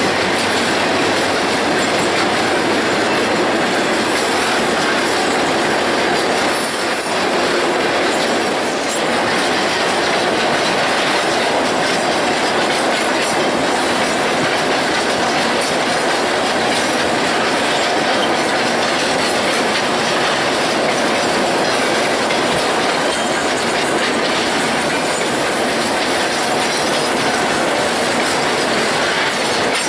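Iron ore train rolling past, its cars' steel wheels running over the rails in a loud, steady clatter.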